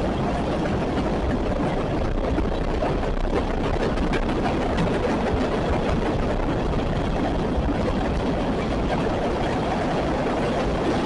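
CSX freight train's cars rolling past, a steady continuous rumble of wheels on rail.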